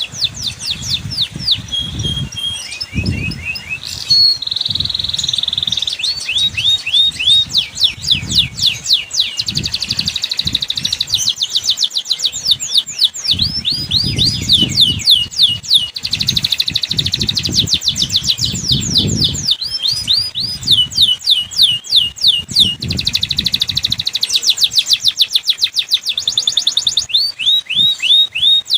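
Domestic canary singing a long, continuous song of fast trills, runs of rapid repeated downward-sweeping notes with a brief held whistle about four seconds in.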